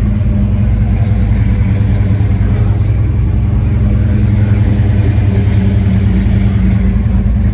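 A 1968 Chevelle SS's big-block V8 running steadily at low speed, a deep, even exhaust note with no revving.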